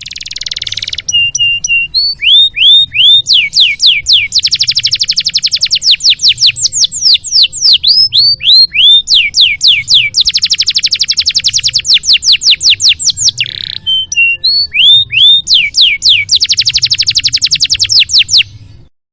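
Domestic canary singing a long, varied song: fast trills of rapidly repeated notes alternating with runs of downward-sweeping whistles, in phrases that break and restart, cutting off suddenly near the end.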